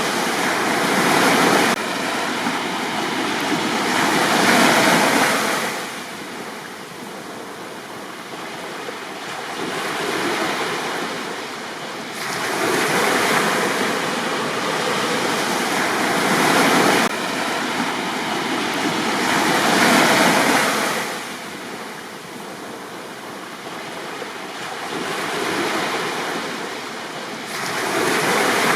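Sea waves washing onto a beach, the surf swelling and falling away in slow surges every few seconds.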